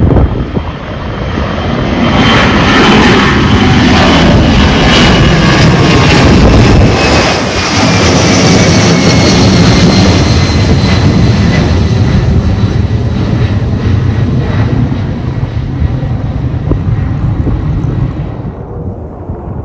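Jet airliner's engines at takeoff power as it goes down the runway and past: a loud rumble with high whining tones that slide slowly down in pitch, fading near the end.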